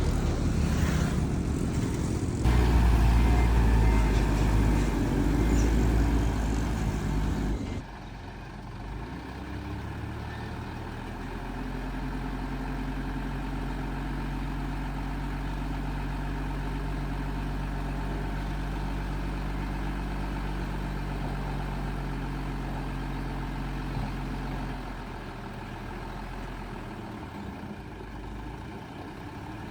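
Heavy diesel engines of dump trucks and a bulldozer running. Loud at first, it drops abruptly about eight seconds in to a quieter, steady engine note, which eases off near the end.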